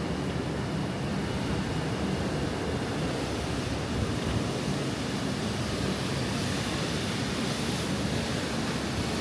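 Steady city street ambience: a constant wash of traffic noise with no single event standing out.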